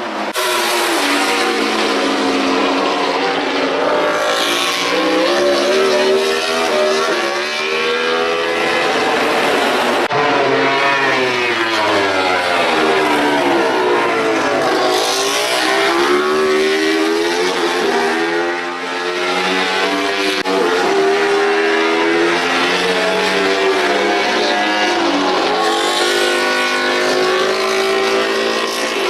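Several MotoGP racing motorcycles' four-cylinder engines running at high revs on track, their pitch climbing and falling as they accelerate, change gear and pass by, often more than one at once.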